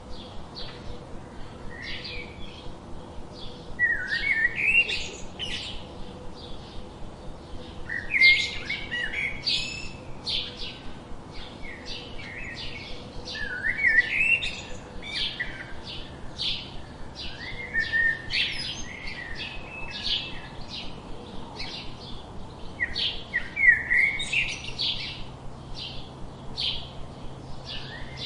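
Songbirds chirping: a steady run of short, high chirps about twice a second, broken every four or five seconds by a louder, warbling song phrase.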